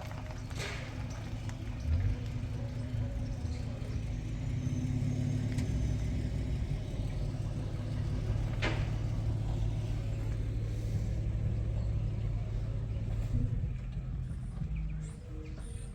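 A steady low engine hum, with a couple of sharp clicks.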